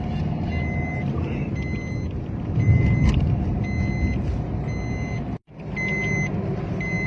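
Road traffic passing close by, a steady engine and tyre rumble, with a short electronic beep repeating about once a second. The audio cuts out for a moment about five seconds in.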